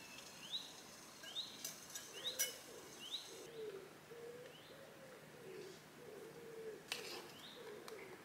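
Woodland birdsong, faint: a small bird repeats a short rising note about once a second, and from about two seconds in a pigeon coos low in repeated phrases. A couple of faint clicks are heard, near the middle and near the end.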